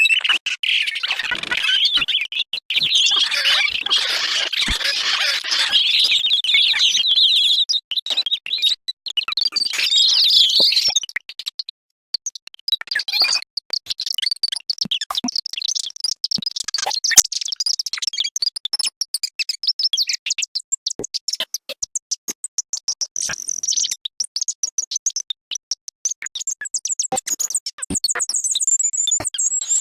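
Short snippets of recorded bird calls triggered one after another in rapid succession from a sound database, each chopped off with a click, making a stuttering stream of chirps and squawks. The calls are lower and busier at first, then turn to thinner, higher chirps and trills in the second half.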